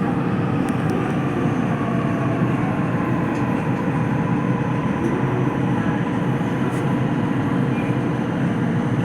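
Toei Mita Line train running between stations, heard inside the passenger car: a loud, steady rumble of wheels and running noise with a faint steady hum over it.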